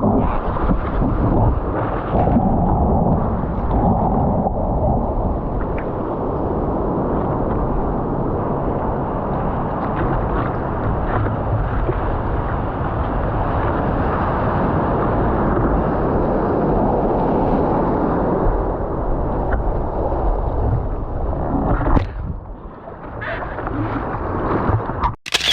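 Muffled, steady rushing of ocean surf and water churning against the camera, dipping briefly near the end before cutting off abruptly.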